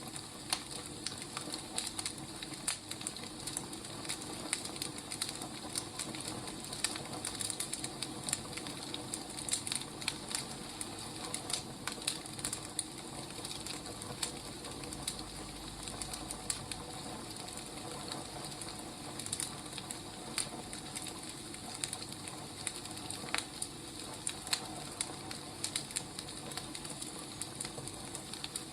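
Wood fire burning, with irregular crackles and pops over a steady low hiss.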